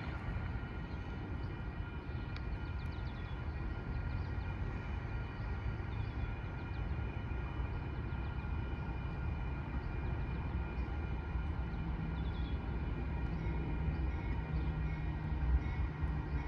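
Train running in the distance: a steady low rumble with several steady whining tones above it and a few faint clicks.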